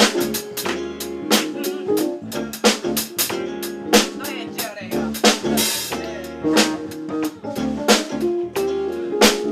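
Live band playing an instrumental passage: drum kit with rimshots and bass drum keeping a steady beat under guitar and bass.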